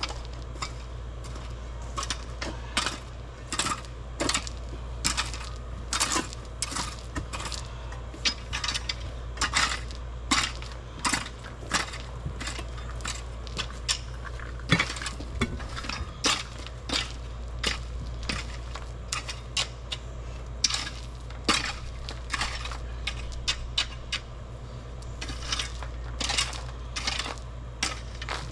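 Metal digging tool striking and scraping hard, rocky soil, a sharp clink roughly once or twice a second in an uneven rhythm, over a steady low rumble.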